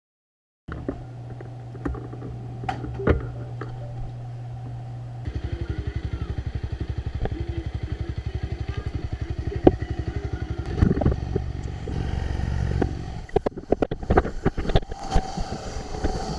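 Motorcycle engine running, first a steady low hum, then about five seconds in a fast, even low pulsing, with scattered clicks and knocks that become more frequent near the end.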